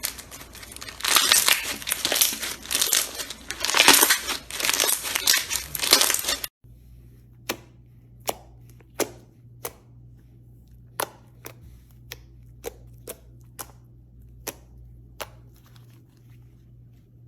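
Slime squeezed and worked by hand with a dense crackling, crinkling sound that cuts off suddenly about six seconds in. Then come about a dozen separate sharp pops, roughly one every half second to a second, over a low steady hum.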